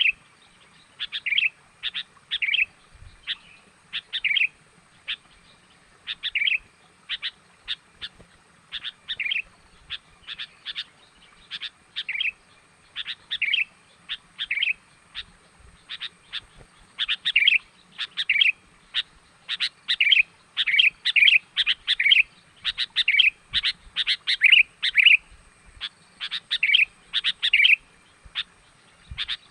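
Sooty-headed bulbul (kutilang) calls used as a bird-lure call: short chirping notes repeated in quick series, growing denser and louder about halfway through. A faint steady high-pitched tone runs underneath.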